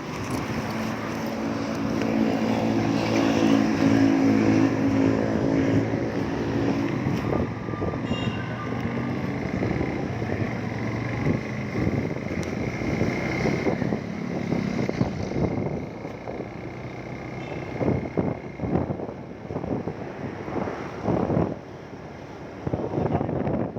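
Motorcycle under way: a steady engine note for the first several seconds, then mostly wind and road noise, with gusts buffeting the microphone near the end.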